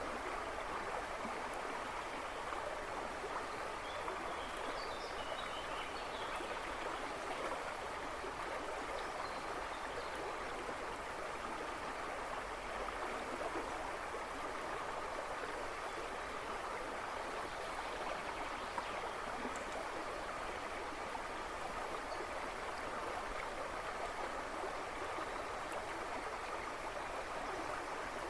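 River flowing over stones, babbling and splashing steadily, with a few faint bird chirps from the woods behind, about four to six seconds in and again near ten seconds.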